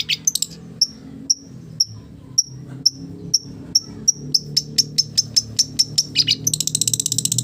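Long-tailed shrike singing: short high notes about two a second, quickening after about four seconds into a fast, dense chatter near the end. The song is made up of imitated calls of common village birds.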